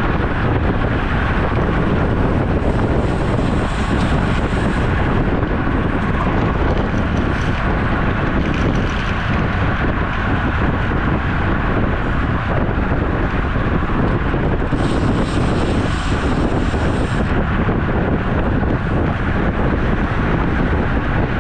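Steady wind rushing over the microphone, mixed with tyre and road noise from a road bike riding at speed.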